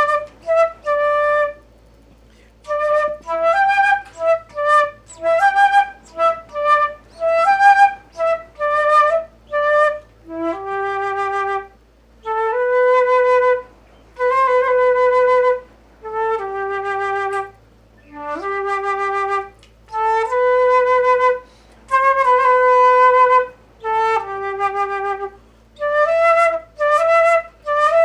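Solo flute playing a melody unaccompanied: quick runs of short notes, then slower phrases of long held notes, each phrase broken off by a short breath gap.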